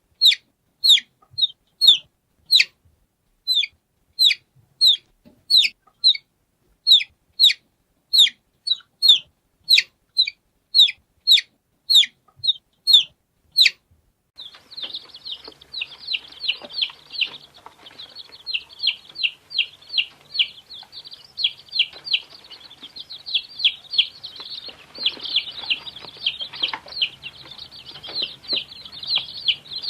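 Domestic chicks peeping: short high peeps that slide down in pitch, spaced about two a second. About halfway through, a different recording starts with dense, overlapping peeping over faint background noise.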